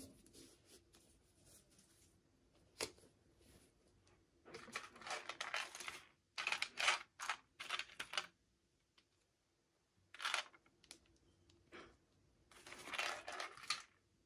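Packaging being opened by hand: several bursts of crinkling and tearing, with a single sharp click near the start.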